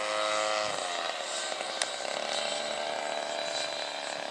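Electric ducted-fan motors of a model CRJ-200 jet whining steadily, then dropping in pitch under a second in as the throttle is pulled back for landing, running on at a lower, rougher pitch. A single sharp click just before two seconds in.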